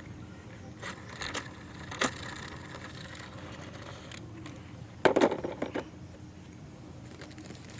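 Plastic toys being handled and set down: scattered light clicks and knocks, with a louder cluster of clatter about five seconds in.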